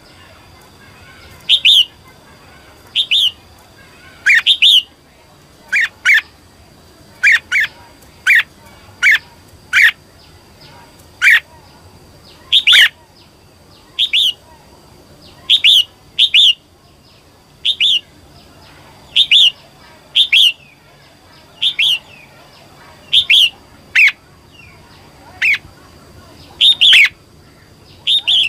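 Female red-whiskered bulbul giving short, sharp calls over and over, about one every second, some in quick pairs. This is the female call that bird-keepers play to rouse male bulbuls to sing.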